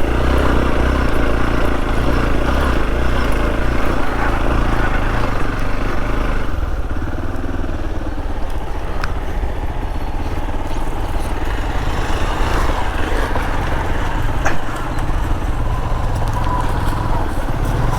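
Motorcycle engine running steadily as the bike is ridden over a rocky off-road trail, with a few sharp knocks from the rough ground.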